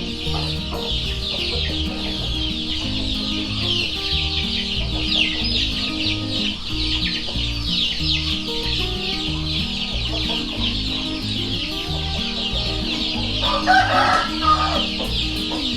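A brood of young chicks peeping continuously: a dense chorus of many short, high, downward-sliding peeps. Near the end an older chicken clucks briefly.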